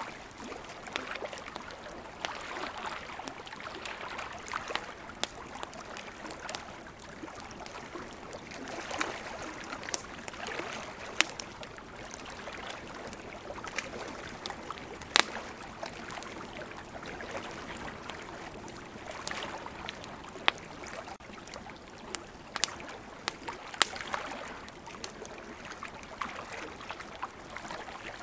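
Campfire wood crackling with scattered sharp pops, a few much louder than the rest, over the steady wash of ocean waves rising and falling.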